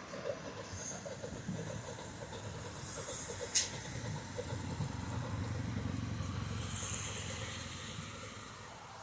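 A vehicle passing, its rumble and hiss swelling and fading twice, with a single sharp click about three and a half seconds in.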